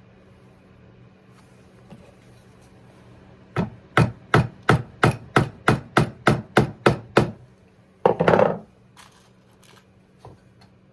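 Tapping on wood: about a dozen sharp, even strikes at roughly three a second, followed about a second later by a short rough scraping or rustling burst.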